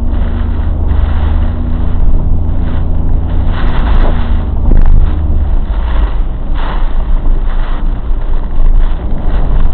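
Typhoon-force storm wind buffeting the microphone: a loud, heavy low rumble with rushing noise, gusts swelling about three and a half and six and a half seconds in.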